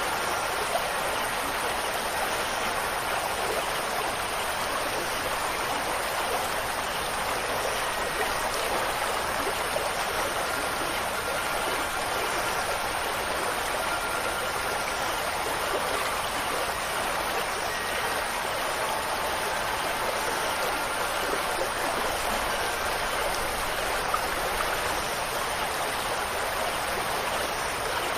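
Steady rushing of running water, even and unbroken, with faint, brief ringing tones of wind chimes here and there.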